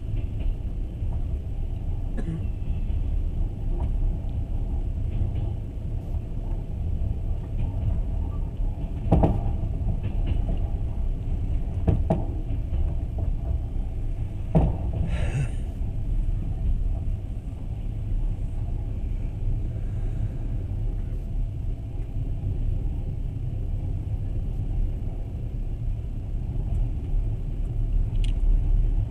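Passenger train carriage running along the track, heard from inside: a steady low rumble with three sharp knocks a few seconds apart near the middle and a brief hiss just after the last.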